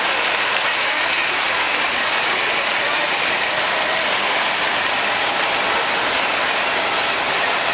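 Miniature model trains running on their track, a steady mechanical clatter within constant background noise.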